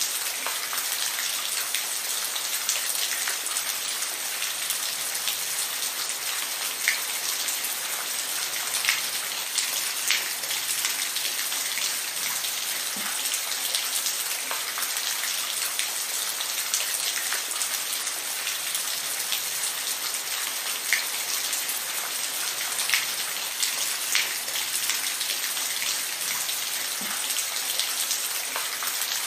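Steady rain falling, an even hiss with scattered sharper drops striking close by.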